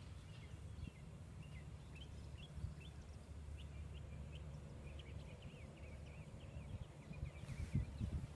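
Small birds chirping, a run of short high calls that keeps going, over a faint low rumble, with a few soft knocks near the end.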